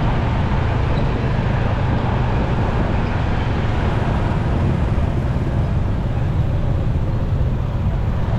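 Steady rumble of a motorcycle riding in road traffic: its engine running evenly under wind and road noise, with no single sound standing out.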